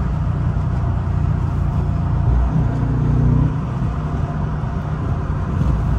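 Dodge Charger R/T's 5.7-litre Hemi V8 cruising steadily at about 70 mph, a low engine drone with road noise, heard from inside the cabin.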